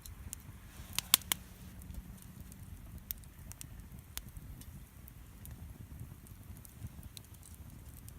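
Wood campfire crackling, with scattered sharp pops over a low rumble and a quick cluster of loud pops about a second in.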